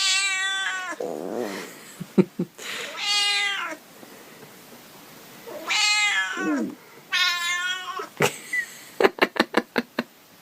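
A domestic cat meowing loudly four times, each a long drawn-out call that slides down in pitch. Near the end comes a quick run of about seven sharp clicks.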